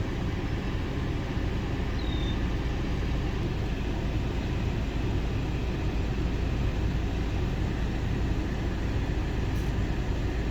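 A 2011 Volkswagen Eos's 2.0-litre four-cylinder engine idling steadily. A short high chirp sounds about two seconds in.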